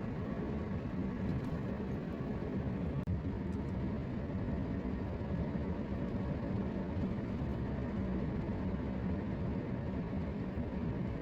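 Car driving at steady speed: an even engine hum with road and tyre noise.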